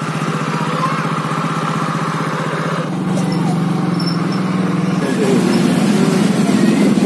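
Yamaha automatic scooter engine running steadily while being ridden, its note stepping up a little about three seconds in. Near the end the sound of other motorbikes in traffic mixes in.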